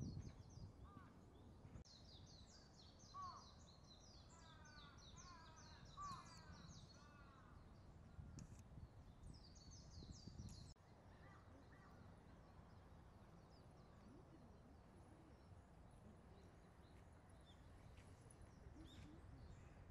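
Birds calling faintly over low outdoor background noise: quick runs of high chirps and a few whistled notes in the first half, then a quieter stretch with only scattered calls.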